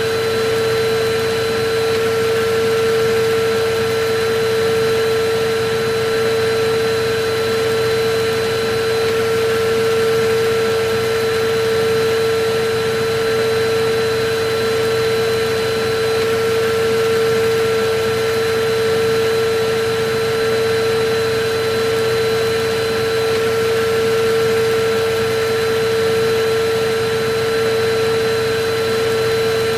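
Electric vacuum cleaner running continuously: a steady motor hum over rushing air noise, with no change in speed.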